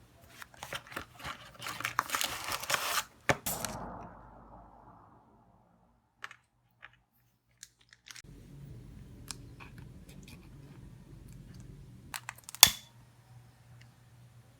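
Close handling sounds: rustling and crinkling with clicks for the first few seconds, then quiet, then a faint steady low hum with scattered light ticks and one sharp click near the end.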